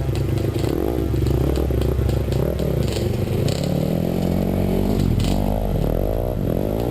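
Dirt bike engine revving, its pitch rising and falling again and again, faster in the second half, over a steady background of music.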